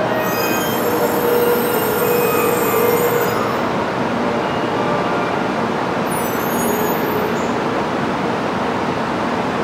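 A 700 series Shinkansen train rolls slowly into a stop at a station platform with a steady rumble of running gear. High-pitched squeals from the running gear sound in the first few seconds and again briefly about six seconds in.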